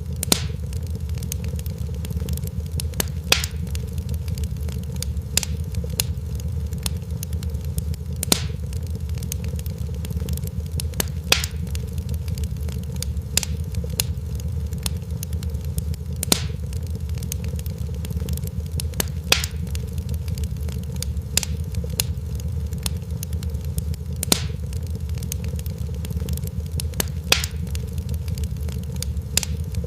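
Crackling fire: a steady low rumble broken by sharp pops and snaps every second or two.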